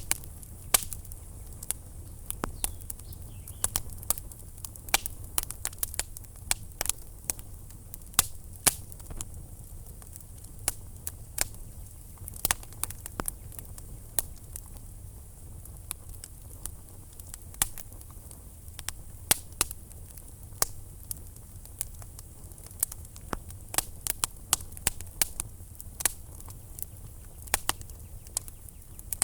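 Wood fire burning in a fireplace, crackling with irregular sharp pops and snaps, a few a second, over a steady low rumble.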